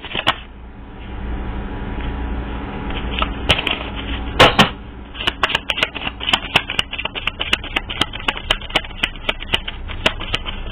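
A tarot deck being shuffled by hand: a rapid run of sharp card clicks and slaps, with two louder flurries near the middle. A low rumble sits underneath in the first half.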